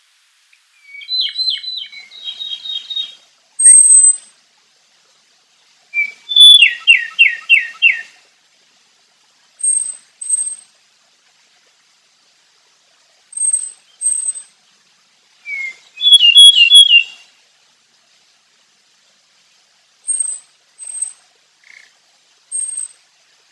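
Okinawa robin singing: three short phrases of rapid downslurred notes, about a second in, about six seconds in and near sixteen seconds, separated by pauses. Short, thin, high paired notes come between the phrases.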